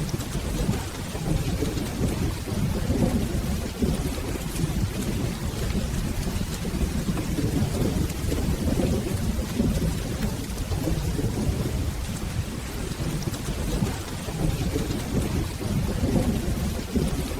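Steady rainfall with a continuous low rumble of rolling thunder underneath.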